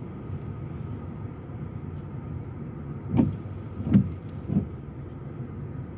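Car driving, heard from inside the cabin: a steady low road and engine rumble, with three short thumps in the second half.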